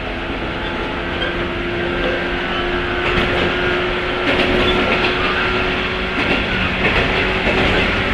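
Running sound of a 103-series electric train's motor car (MoHa 102) with MT55 traction motors: a steady rumble with a held motor and gear hum. From about three seconds in, the wheels click over rail joints.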